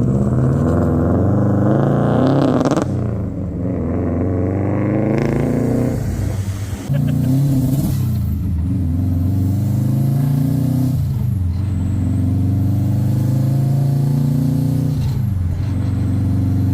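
Subaru 2-litre WRX turbocharged flat-four engine accelerating hard through the gears. The pitch climbs, then drops at each upshift, about four times.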